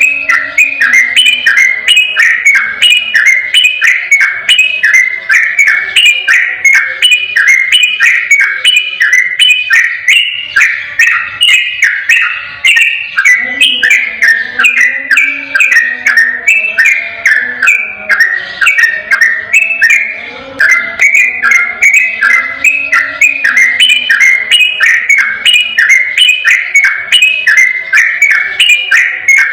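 Yellow-vented bulbul singing loudly in a long, unbroken 'ropel' run: quick bubbling whistled phrases repeated about two to three times a second, with no pauses.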